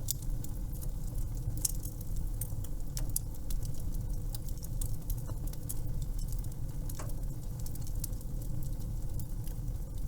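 Wood fire crackling: a steady low rumble with frequent, irregular sharp pops and snaps.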